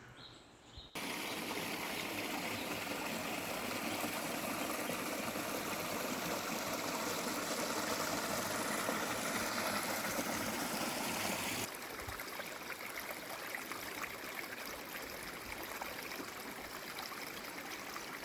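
Running water of a bush creek, an even rushing hiss that cuts in about a second in, switches abruptly to a quieter rush about twelve seconds in, and cuts off suddenly.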